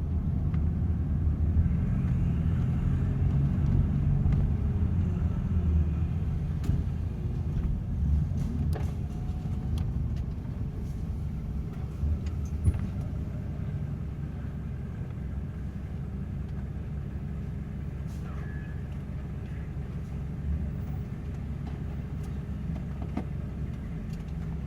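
BMW F30 328i's turbocharged N20 four-cylinder, fitted with an aftermarket Injen-style intake and GFB diverter valve, running as the car is driven: a steady low engine rumble, louder for the first ten seconds or so and then settling lower. A single sharp click about halfway through.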